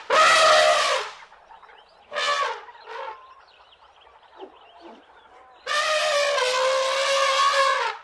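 Young Asian elephants trumpeting: a loud call at the start, two short calls about two and three seconds in, then one long steady call over the last two seconds or so.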